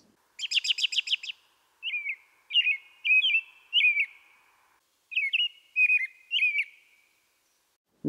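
American robin singing: a quick run of short high notes, then short slurred caroling phrases in two groups with a pause of about a second between them, the 'cheer up, cheerily' song.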